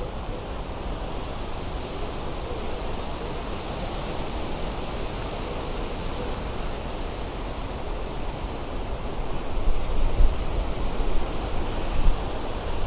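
Strong wind rushing through trees and bushes as a steady hiss, with gusts buffeting the lapel microphone in low rumbles from about three-quarters of the way in.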